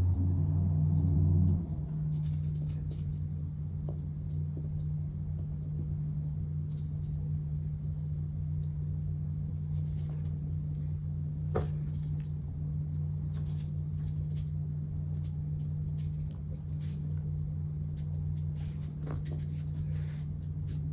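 A steady low hum, with its deeper, louder part dropping away about a second and a half in. Faint scattered clicks and light ticks of small parts being handled sound over it.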